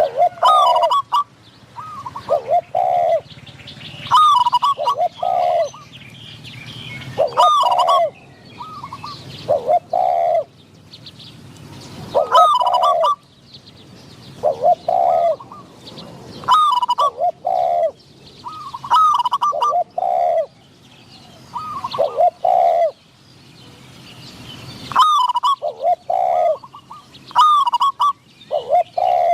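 Spotted doves cooing in repeated phrases, call answering call, as a decoy and a wild bird call back and forth. Thin high chirps sound between the coos.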